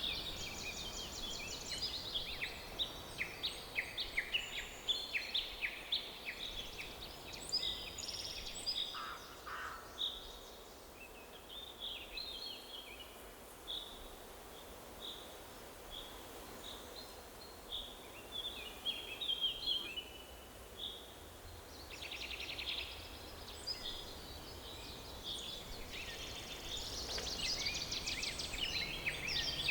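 Forest ambience with many birds chirping and trilling over a faint background hiss. The birdsong is densest at the start and again from about 22 seconds in, with sparser single calls in between.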